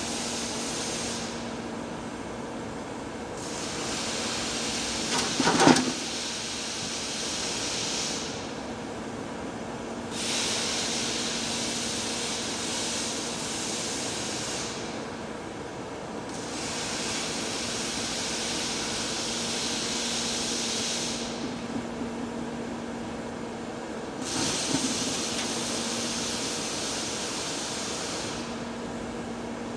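TIG welding arc on a heavy-wall pipe, a steady hiss over a low hum, its upper hiss thinning out for a couple of seconds about every six seconds. A sharp knock about five seconds in.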